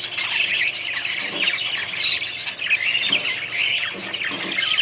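A colony of budgerigars chattering, many overlapping chirps and squawks at once with no break.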